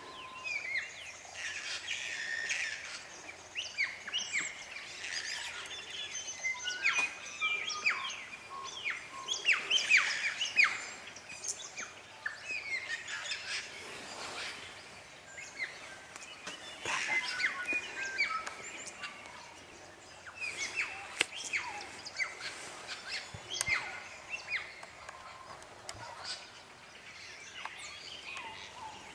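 A chorus of songbirds, many short chirps and whistled notes overlapping, busiest around ten seconds in.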